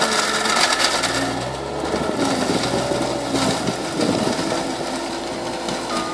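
Cat 299C compact track loader's diesel engine running under load while its HM315B brush mulcher chews through brush, the engine pitch dipping and recovering with the load over a dense, rapid clatter of the mulcher teeth on wood.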